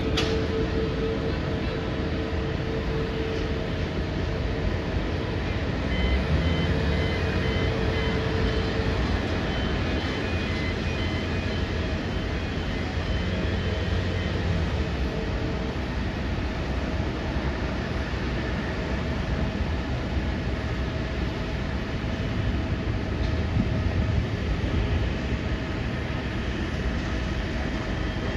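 Steady low rumble of a moving vehicle, with a faint steady tone through the first half.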